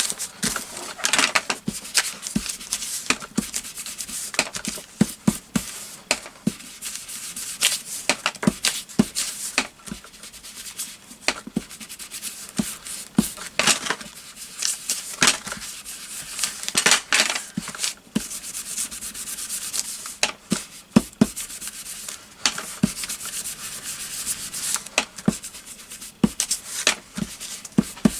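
Paper being rubbed and tapped over and over with a craft tool, distressing it to give it an aged look: irregular scratchy strokes with sharp taps, several a second.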